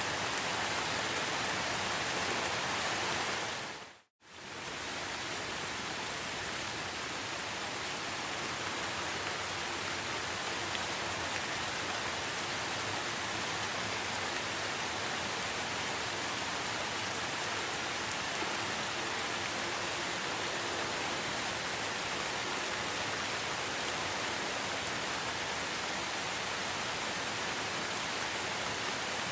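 Steady heavy rain in a rainforest, an even hiss of falling water. About four seconds in it fades briefly to silence and swells straight back.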